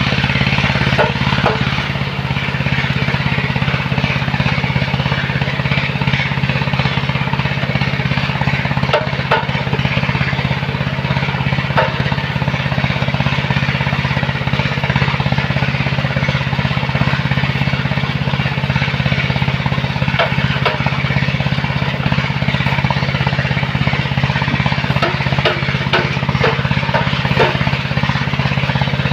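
The engine of a heavy sand-loading machine running steadily at constant speed, with scattered sharp clicks and knocks over it.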